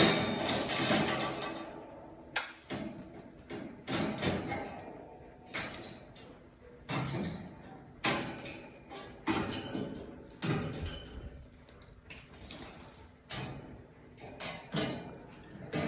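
Alexandrine parrot splashing and flapping in its bath water: repeated splashy bursts about once a second, the first and loudest lasting about two seconds.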